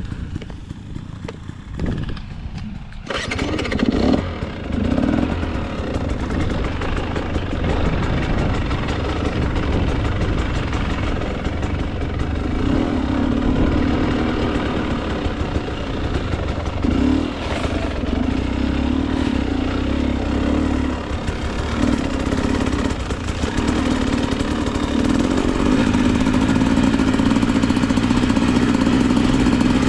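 Husqvarna TE 300 two-stroke dirt bike engine starting about three seconds in, then running with the throttle opening and closing.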